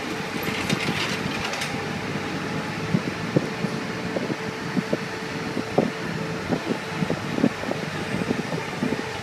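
Motorcycle engine running at low speed, a steady hum broken by irregular low thumps.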